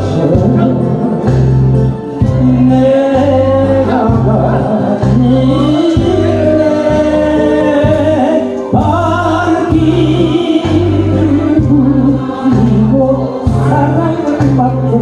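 A man singing a slow, sweet-voiced song to a backing track, holding long notes over a steady pulsing bass beat.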